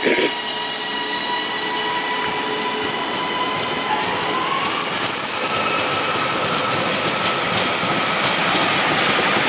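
Northern class 331 electric multiple units running through the station: a steady electric whine made of several tones, one stepping up in pitch about four seconds in, over wheel-on-rail rumble that grows slowly louder. A short knock sounds right at the start.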